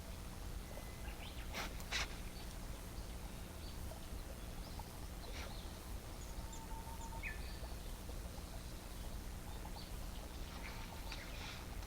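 Low steady rumble with scattered faint clicks and crackles, the sharpest about two seconds in and a cluster near the end, and a few short bird calls.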